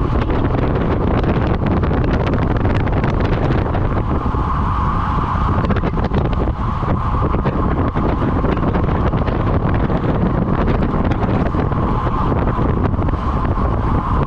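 Steady wind rush on the microphone of a road bike moving at speed, over a constant tyre and road rumble with fine rattling clicks.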